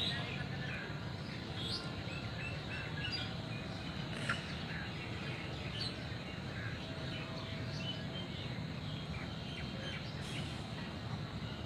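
Birds chirping in short, scattered calls over a steady background of outdoor noise.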